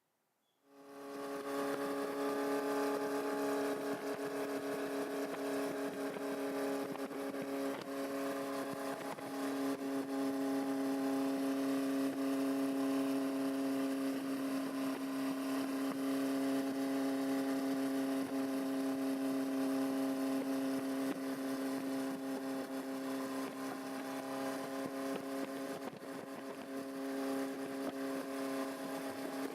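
Honda CB400Four's inline four-cylinder engine running at steady revs through an aftermarket muffler, one even exhaust note that fades in about half a second in.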